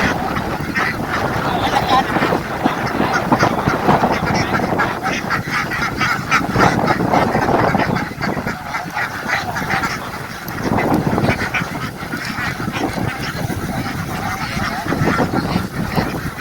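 A large flock of domestic ducks quacking together, many short overlapping calls forming a continuous din.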